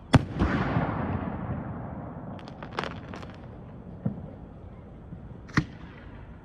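Fireworks going off: a sharp bang at the start, followed by a rumbling crackle. A cluster of smaller crackling pops comes about three seconds in, then a duller thump, and another sharp bang near the end.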